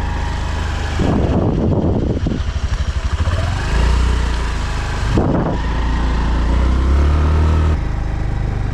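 Motorbike engine running steadily while riding, the rumble mixed with noisy rushes of wind or road noise about a second in and again about five seconds in, and a brief rise in pitch a few seconds in.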